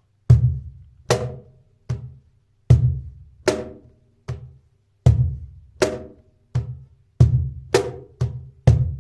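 Cajon played with bare hands, single strokes cycling through the three basic tones: a deep bass hit, a sharp high slap, and a weaker medium tone. The strokes come at just over one a second and speed up near the end.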